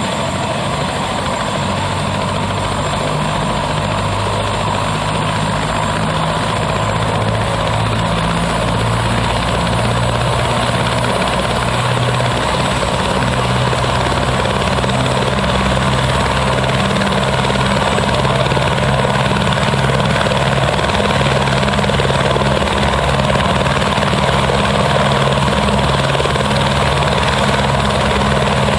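Helicopter running steadily and loudly, its rotor noise carrying a pulsing low beat.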